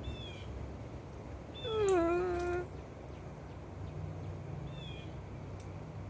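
A cat meows once, about a second and a half in: one call of about a second that falls in pitch and then holds level.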